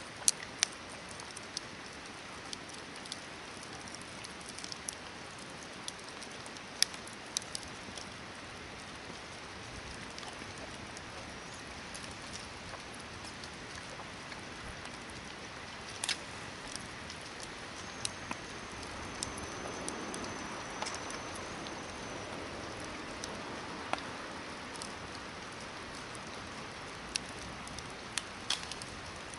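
Hardwood campfire burning: a steady hiss with irregular sharp crackles and pops throughout, and a faint high whistle for a few seconds about two-thirds of the way in.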